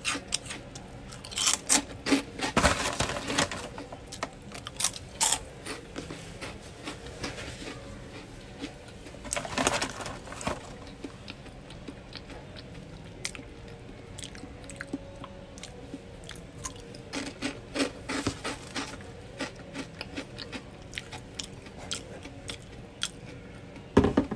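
Close-up mouth sounds of eating a Big Mac and French fries: bites and chewing with wet clicks and soft crunches, coming in irregular clusters with short lulls between.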